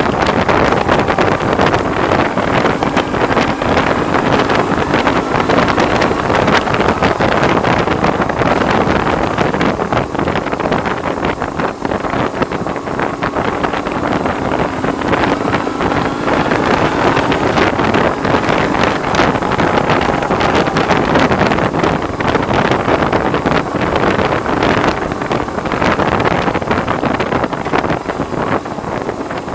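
Heavy wind noise buffeting the microphone on a moving BMW R1100R, with the bike's boxer-twin engine running underneath, its note drifting slowly up and down. The rider puts the wind noise down to the windscreen.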